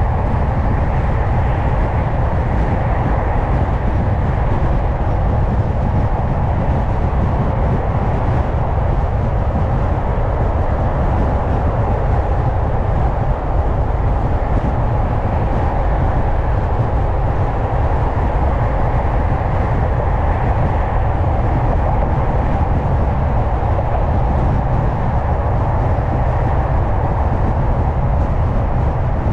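Car driving at a steady speed: continuous tyre and road noise with a low engine hum, unchanging throughout.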